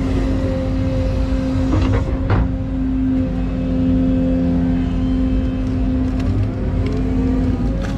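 Excavator running steadily, its diesel engine rumbling under a constant whine, with a few sharp metallic knocks about two seconds in and again near the end.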